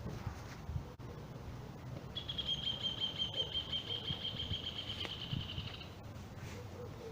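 A bird's high, even trill held at one pitch for about three and a half seconds, starting about two seconds in, over faint low knocks and rustling.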